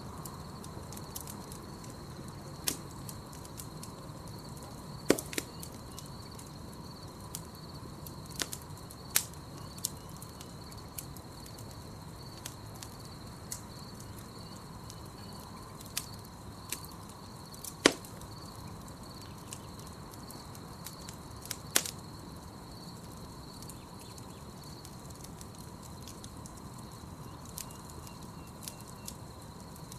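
Wood campfire crackling, with sharp irregular pops and snaps, a few much louder than the rest, over a steady high trill of night insects.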